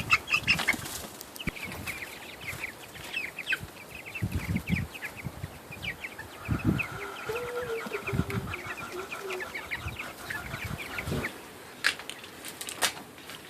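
A flock of three-week-old Jumbo Cornish Cross meat chickens peeping, many short high falling chirps overlapping, with scattered low thumps and a couple of sharp clicks near the end.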